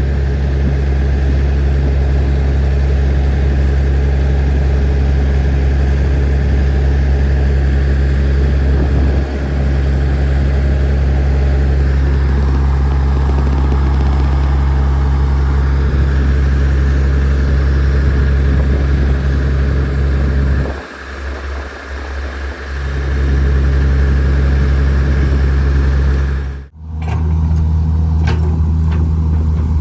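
Diesel engine of heavy earthmoving equipment running steadily with a deep, even drone. The low note drops away briefly about two-thirds of the way through, and the sound breaks off abruptly near the end before carrying on.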